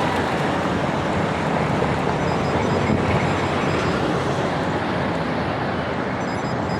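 Steady rush of city road traffic, an even noise with no distinct horns or engine notes standing out.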